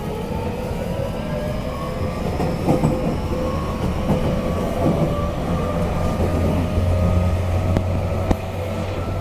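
Running sound inside a motor car of a JR Kyushu 813 series electric train: the traction motor and inverter whine climbs slowly in pitch as the train gathers speed, over a steady rumble of wheels on rail. Two sharp clicks come near the end.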